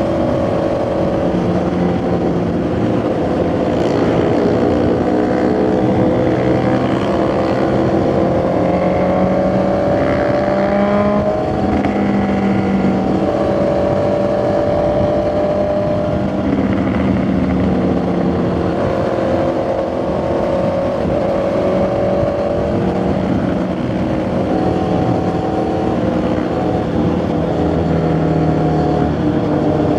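Honda CB650R's inline-four engine and exhaust running on the move, its pitch climbing and dropping repeatedly as the rider works the throttle and gears.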